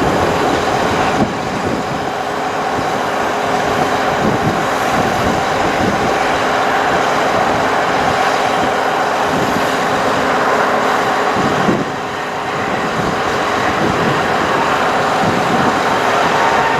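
Sterling Bullet bucket truck's diesel engine running steadily, with a constant whine over it. About a second in and again about twelve seconds in, a short click is followed by a brief drop in the sound.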